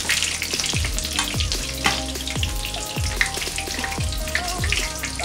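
Breaded shrimp frying in hot oil in a frying pan: a steady, dense sizzle and crackle.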